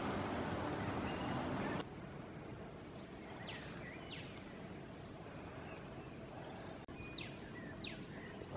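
A steady hiss that cuts off suddenly about two seconds in, then quiet outdoor background with a bird calling twice, each time a pair of short downward-sweeping whistles.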